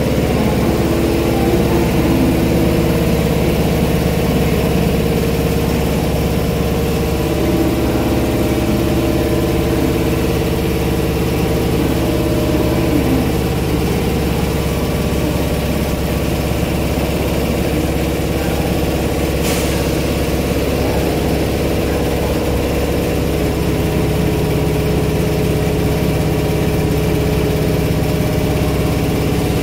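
Steady machinery hum with several held tones and a low rumble from a Kintetsu 8600 series train standing at an underground platform, its onboard equipment running while it waits. A single brief tick about two-thirds of the way through.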